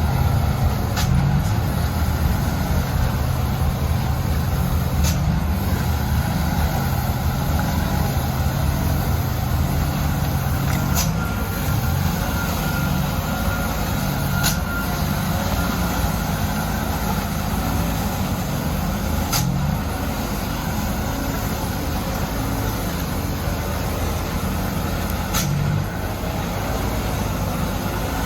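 Mitsubishi Canter truck's diesel engine running steadily as a low drone under a heavy load, with a few sharp clicks scattered through.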